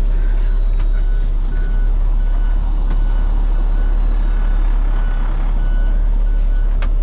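Truck backup alarm beeping about twice a second over the steady low running of a Peterbilt 389X heavy rotator wrecker's diesel engine as it reverses, with a sharp click near the end.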